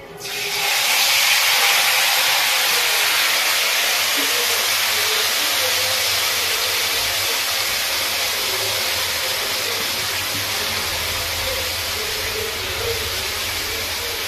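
Masala-marinated mutton hitting hot oil in a kadai: a loud frying sizzle that starts suddenly and slowly dies down.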